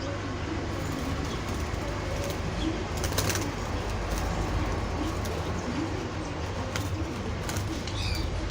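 Pigeons cooing, repeated low rolling calls, over a steady low hum, with a sharp click about three seconds in.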